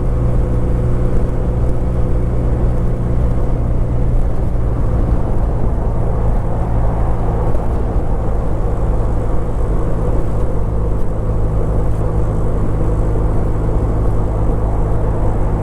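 Kawasaki W800's air-cooled parallel-twin engine running at a steady cruise while the motorcycle is ridden, with a low rumble of road noise underneath.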